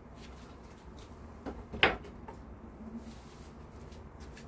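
Two light knocks, the second louder and sharper, about a second and a half and two seconds in, over a low steady hum.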